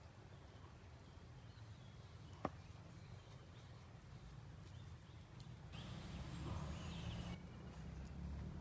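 Outdoor ambience dominated by a steady high-pitched insect drone, with one sharp click about two and a half seconds in and a louder stretch of noise lasting about a second and a half, starting around six seconds in.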